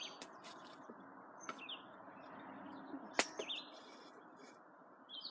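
Small birds chirping in short, quick falling notes every second or so over a steady low hiss, with one sharp click a little over three seconds in.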